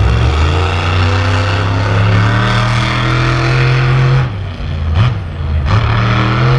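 Monster truck engine running at high revs under hard throttle, held for about four seconds, then it drops off, blips once briefly, and picks up again near the end.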